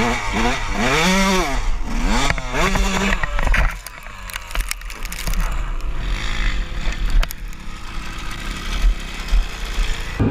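Motorcycle engine revved up and down several times in quick succession, then running more quietly with rushing noise and a few sharp knocks.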